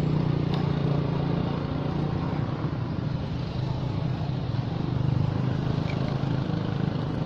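An engine running steadily, a low even hum with no clear change in speed.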